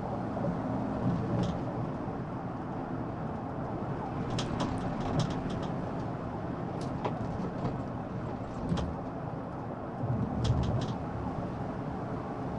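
Steady road and engine noise of a police car driving fast on the highway during a pursuit, with a few short clicks scattered through.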